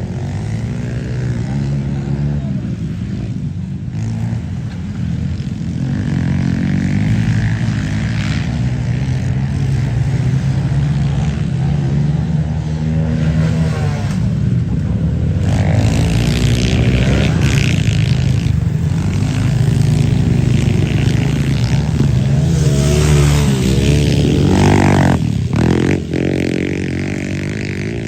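Pit bike engine running hard on a dirt track, its pitch rising and falling with repeated acceleration and throttle changes; the loudest stretch is in the second half.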